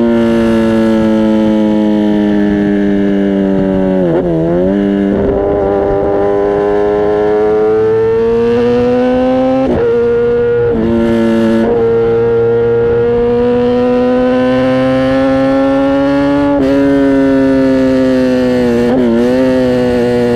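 Kawasaki ZX-10R inline-four sport bike's exhaust while riding, the engine note holding a fairly steady pitch with several brief dips and recoveries, the deepest about four seconds in.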